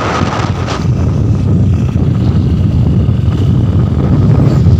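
Motorcycle riding at road speed: a steady low engine and road rumble under heavy wind buffeting on the microphone, growing slightly louder near the end.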